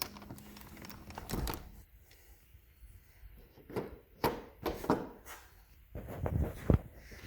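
Handling noises: a scattering of short knocks, clacks and rustles, the sharpest one near the end.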